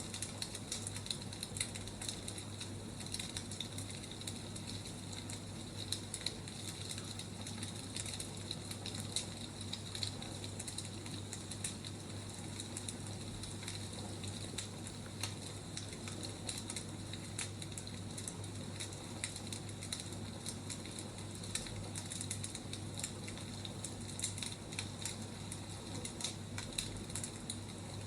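Firewood burning: a steady hiss with many small, irregular crackles and pops, and a faint low hum underneath.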